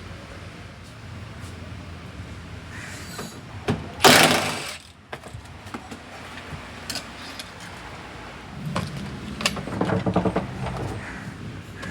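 Mechanic's hand tools at work inside a car's interior: scattered clicks and clatter, with one loud rushing burst about four seconds in and a run of quick ratchet clicking near the end.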